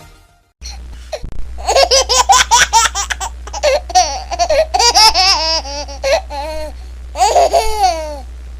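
A baby laughing in fits: a rapid string of high-pitched laugh pulses starting about a second and a half in, then a second burst near the end, over a low steady hum.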